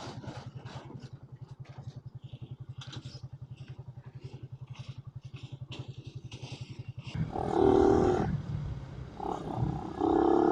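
Suzuki Raider 150's single-cylinder four-stroke engine idling with a fast, even putter. About seven seconds in it revs up and gets much louder, with a higher engine note, dips briefly, then rises again near the end.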